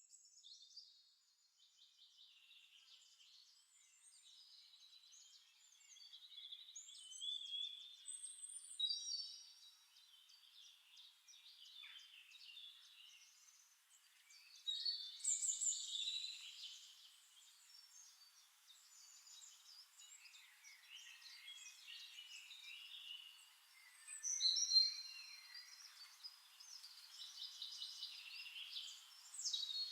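Several songbirds chirping and trilling over one another in a forest dawn-chorus style recording, with a few louder song phrases standing out.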